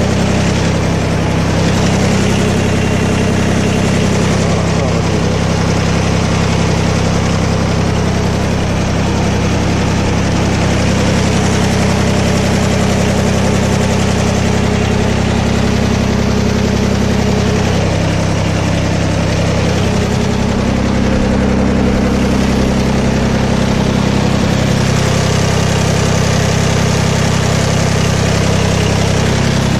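Kubota BX1860 compact tractor's three-cylinder diesel engine idling steadily, its note shifting slightly a couple of times.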